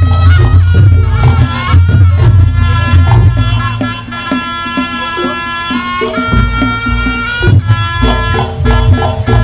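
Reog Ponorogo music: a slompret (shawm) plays a long-held, reedy melody over drums and gongs. The heavy bass beat drops out for about two seconds in the middle, then comes back.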